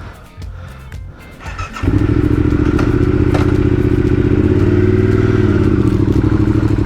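Yamaha Ténéré 700's parallel-twin engine cold-starting after a few clicks about two seconds in, then idling steadily with a slight dip and recovery in pitch partway through.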